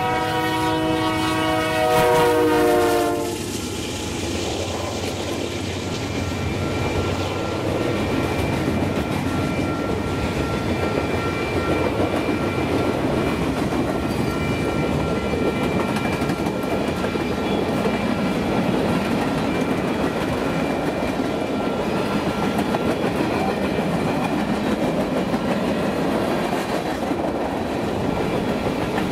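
Freight locomotive's multi-note air horn blowing and cutting off about three seconds in, dipping slightly in pitch at the end. Then the freight cars roll past with a steady rumble and wheel clatter over the rail joints.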